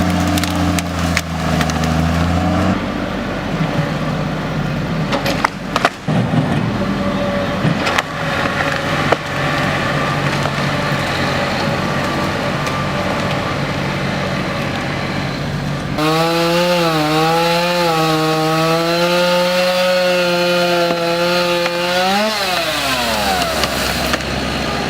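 Chainsaw cutting up fallen trees: the engine runs under load with wood cracking and splintering, then holds a wavering high note and rises and drops away about 22 seconds in.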